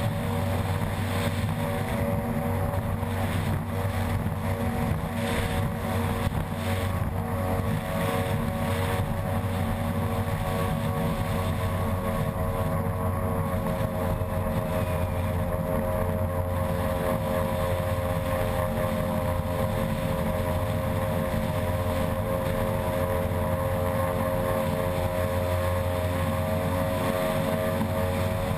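Unlimited Outboard ski-race boat's outboard engine running hard at a steady, even pitch, with the hull running on the water.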